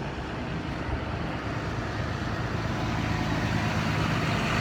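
Motor vehicle engine and road noise, steady and slowly growing louder over the few seconds.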